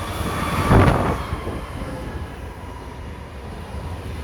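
Passenger train running on the rails: a steady low rumble that swells into a brief loud rush about a second in, then settles back.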